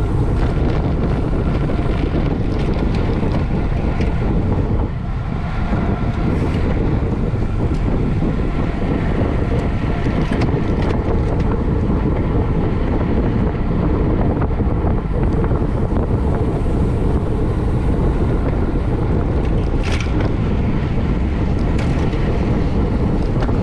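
Heavy, steady wind noise rushing over a camera microphone moving at racing speed, with a few faint clicks.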